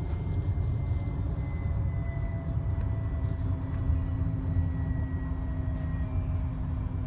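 TriMet MAX light-rail car running, heard from inside: a steady low rumble with faint whines over it, one of which slowly falls in pitch as the train slows for a station stop.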